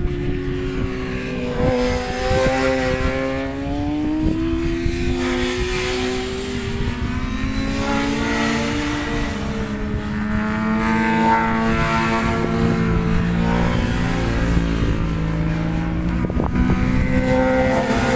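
Several racing motorcycle engines running on the circuit, their notes rising and falling as the bikes pass and go round the track. Strong wind buffets the microphone with a low rumble.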